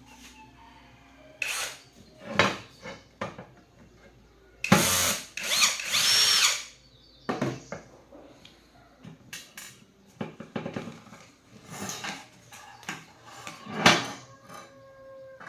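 A handheld power tool run in several short bursts, the longest lasting about two seconds around the middle.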